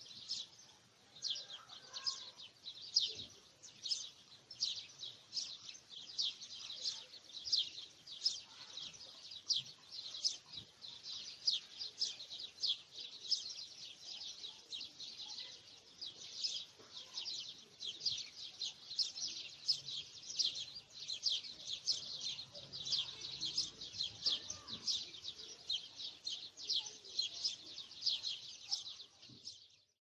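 Small birds chirping continuously, a steady run of short, high chirps, several a second.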